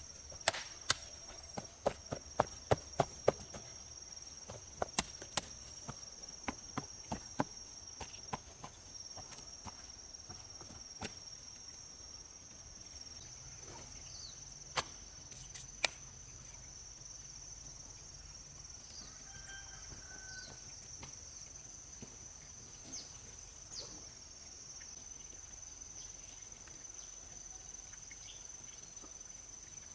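A run of sharp knocks, several a second at first and thinning out after about eight seconds, with two more near the middle. Insects drone steadily on one high tone underneath.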